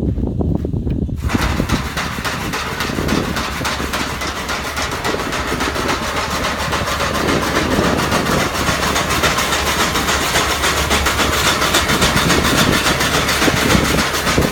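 Engine of a 1972 Chevrolet C/50 grain truck running. About a second in, a loud, steady, hissing, rapidly pulsing noise comes in on top of the low rumble and carries on until it cuts off suddenly.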